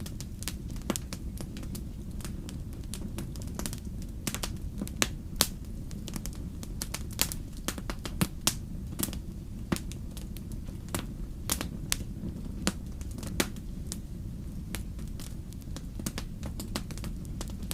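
Wood fire burning, with a steady low rumble of flames and irregular sharp crackles and pops from the burning logs.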